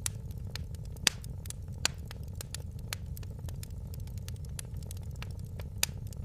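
Fireplace fire crackling: a steady low rumble of flames under frequent small snaps, with louder pops about a second in, near two seconds and near the end.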